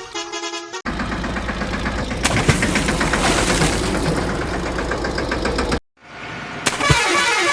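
A vehicle horn honks briefly, then a heavy vehicle engine runs for about five seconds and cuts off abruptly. After a short silence the horn honks again near the end.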